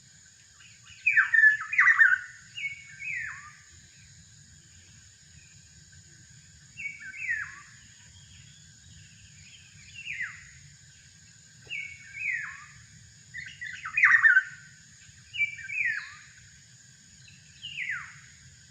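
Sulawesi oriole (kepodang) calling: repeated phrases of two or three loud whistled notes that each slide downward, coming every couple of seconds, over a steady high-pitched hiss.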